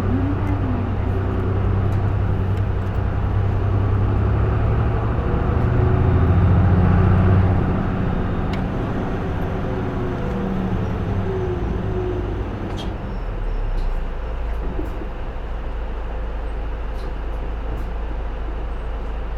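Diesel engine of a J-Bus PKG-LV234L2 full-size route bus heard from inside, pulling harder and loudest about six to seven seconds in. It then eases off with a falling pitch and runs on more quietly as a low steady rumble, with road noise under it.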